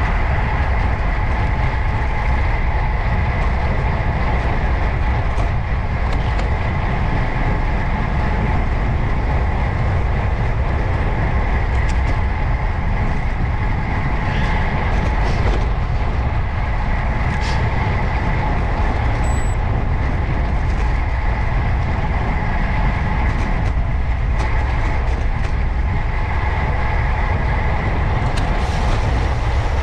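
Steady rumble of wind and road noise picked up by a camera on a moving road bicycle, with a few light ticks in the middle.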